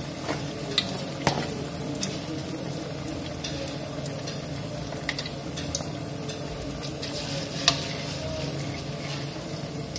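Hot oil sizzling steadily in a wok as spoonfuls of mashed tofu batter deep-fry, with a few sharp clinks of a metal spoon against the wok, the loudest near the end.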